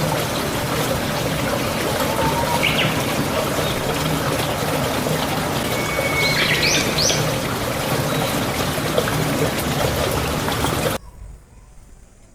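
A steady rush of running water that starts and cuts off suddenly, with a few short bird chirps about three seconds in and again around six to seven seconds in.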